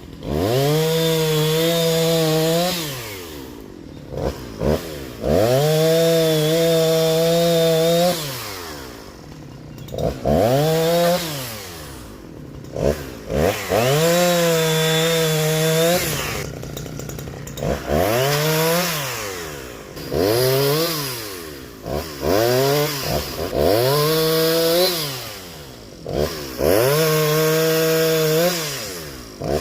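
Jonsered two-stroke chainsaw, freshly rebuilt with a cheap eBay piston-and-cylinder top-end kit, bucking a downed tree. It revs to full throttle and holds a steady pitch for a second or more through each cut, then drops back toward idle, about eight times. It runs strongly and evenly throughout.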